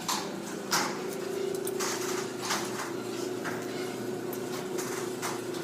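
Electric garage door opener motor running steadily with a hum as it raises the door, with intermittent clacks and rattles from the moving door.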